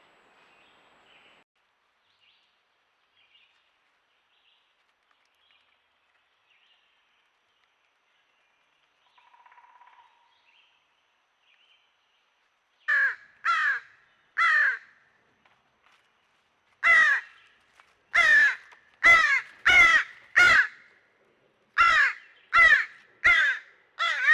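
A bird calling loudly in a run of harsh, downward-sliding calls: three about halfway through, then after a short pause eight more at about one a second. Before the calls there is only faint background.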